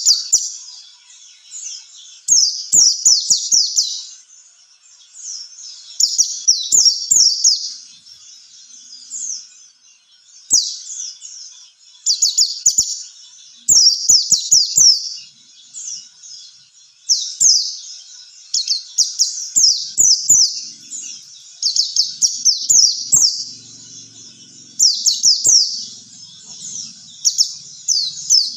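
White-eye (pleci, Zosterops) singing: phrases a second or two long of rapid, high, quickly falling chirps, repeated with short pauses.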